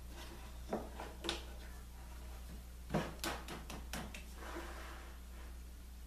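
Handling of a router being loosened and adjusted: a couple of single knocks, then a quick run of clicks about three seconds in, over a steady low hum.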